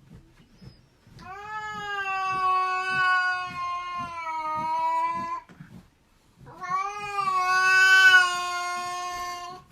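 A cat giving two long, drawn-out meows, each held at a nearly steady pitch for several seconds, with a short pause between them.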